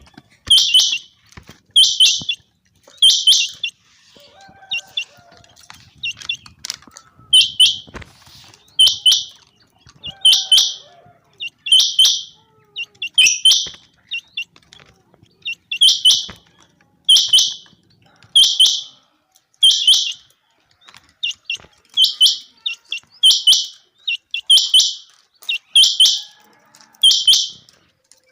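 Common quail singing its repeated high, clipped call phrase, roughly one phrase every second and a half, with a couple of brief pauses.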